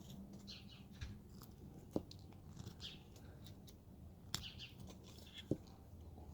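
Faint scraping of a carving knife cutting into wood, in short irregular strokes, with a few light clicks and taps among them.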